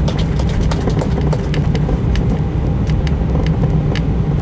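Airbus A319 cabin noise while taxiing: a steady low rumble from the engines and rolling gear, with many scattered small clicks and rattles throughout.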